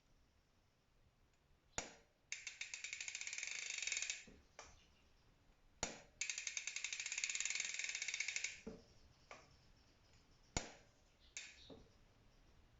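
Bicycle rear wheel with a SRAM GX Eagle cassette: several sharp single clicks and two spells of rapid ratchet ticking, about two seconds each and fading at the end, as the freehub pawls click while the wheel spins.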